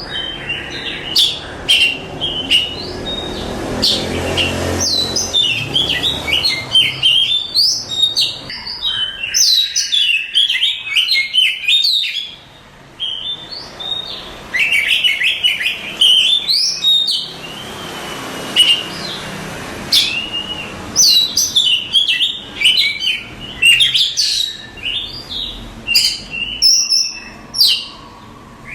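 Oriental magpie-robin singing a long, varied song of rapid whistles and chirps, phrase after phrase, with a short lull a little before the middle.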